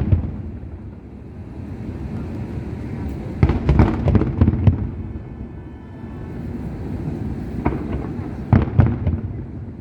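Fireworks display: aerial shells bursting in quick clusters of booms, one group about three and a half seconds in and another near the end, over a steady low background rumble.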